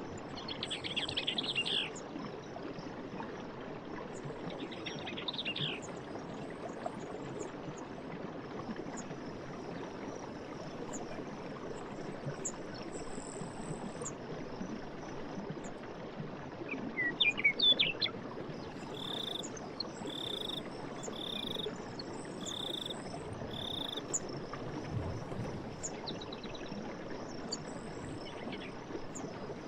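Night forest ambience: a steady background hiss with frog, insect and bird calls. There is a quick trill near the start, a louder flurry of chirps a little past halfway, then five short, evenly spaced calls.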